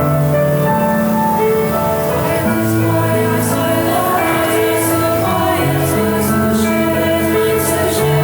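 Music: a choir singing held notes with instrumental accompaniment.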